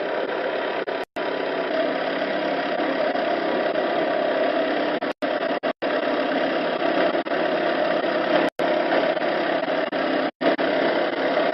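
An engine running steadily at a constant speed, broken by a few very short, abrupt silent gaps.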